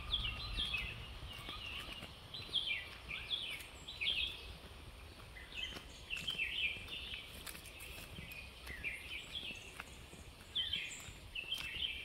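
Songbirds chirping in quick, high, repeated phrases, several calls following one another, over a steady outdoor hiss. A few faint clicks sound among the calls.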